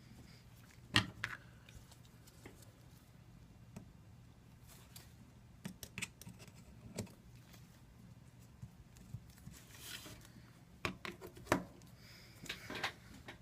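Scattered small clicks and brief rustles of double-sided sticky tape being handled and pressed along an iPad 2 screen bezel, the loudest clicks about a second in and near the end.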